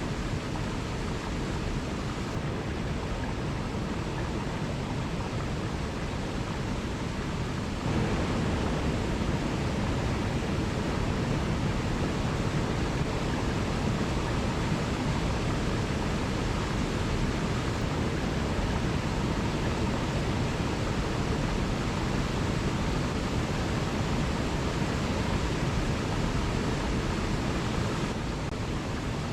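Waterfall rushing steadily, an even roar of falling water that steps up louder about eight seconds in and drops back near the end.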